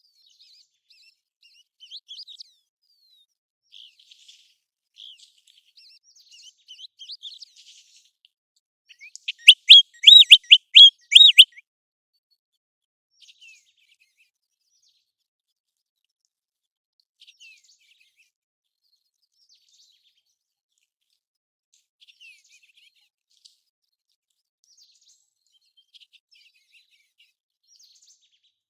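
American golden plover calling: faint, scattered high whistled notes, then about nine seconds in a loud run of around eight quick repeated notes lasting a couple of seconds, followed by a few faint notes spaced well apart.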